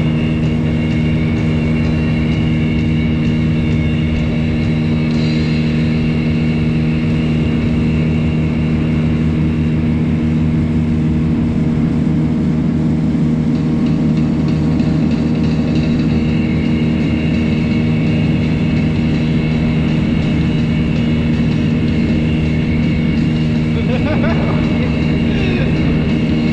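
Gladiator 9.9 hp outboard motor running at a steady, unchanging speed, pushing the boat along.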